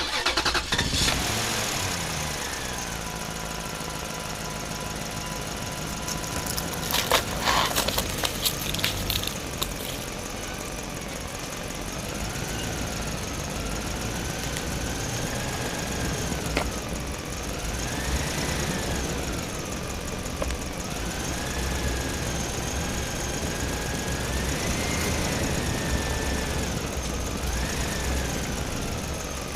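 Miniature diesel engine running a small water pump with a knocking beat. A clatter of clicks comes about a quarter of the way in, and later a whine rises and falls several times as the engine speed changes.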